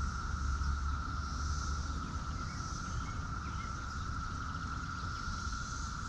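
Insects droning steadily, a continuous high buzz with a hiss above it that swells and fades every second or two, over a low rumble that is strongest in the first second. A few faint short chirps come about halfway through.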